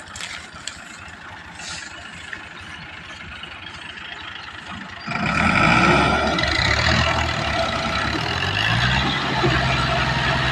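Tractor engine: a faint low rumble at first, then about five seconds in it suddenly becomes loud and keeps running steadily with a heavy low drone.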